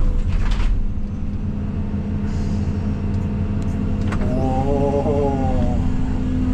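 Case CX220E excavator's diesel engine running steadily as it works a stump with its boom and thumb. A brief whine rises and falls for about a second and a half, starting about four seconds in, over a few light clicks and knocks.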